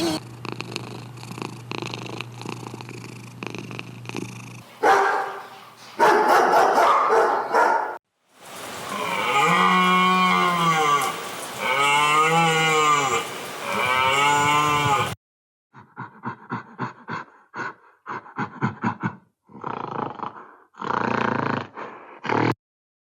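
Several different animal sounds in succession: first a steady low hum with fine ticking, then a few rough noisy calls, then three long pitched calls that rise and fall, and finally runs of short, rapid pulsed calls.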